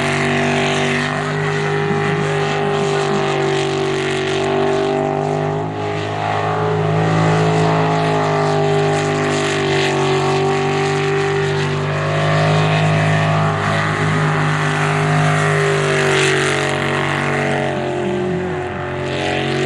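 Jet sprint boat engine running hard and steady, its pitch dipping and climbing again a few times.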